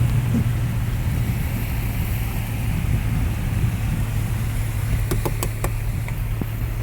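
Toyota FJ Cruiser's V6 driving slowly through floodwater: a steady low engine hum under a rushing noise. A few sharp clicks come about five seconds in.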